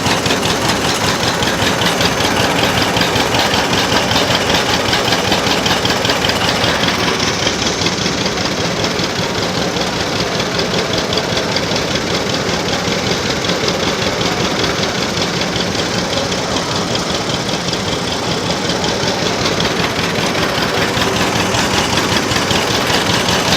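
Old tractor engine idling at a steady, even beat.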